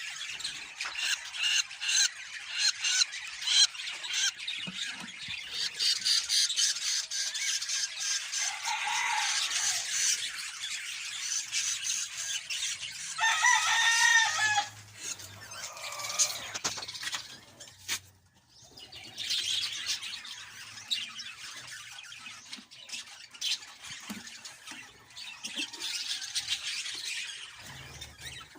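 Budgerigars chirping and chattering almost without pause in quick, high calls, with a louder call about fourteen seconds in and a brief lull a few seconds later.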